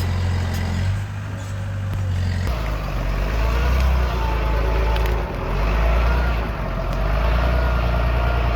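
Diesel engine of heavy earthmoving machinery running under load. Its note shifts about a second in and again about two and a half seconds in, with a wavering higher whine over it from about three seconds on.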